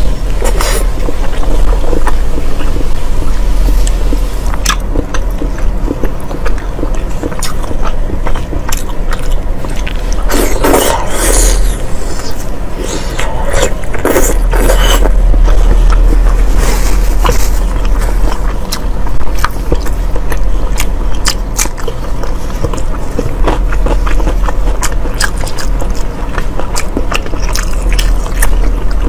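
Close-miked biting and chewing of deep-fried pig intestine: a rapid run of wet clicks and smacks, with denser bursts of chewing about ten and fourteen seconds in. A steady low hum runs underneath.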